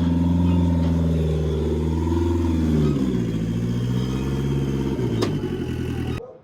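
Turbocharged Polaris RZR Pro R side-by-side engine (D&M Racing turbo kit) running under way. Its pitch holds, then drops and wavers about three seconds in, with a sharp click about five seconds in. The sound cuts off abruptly near the end.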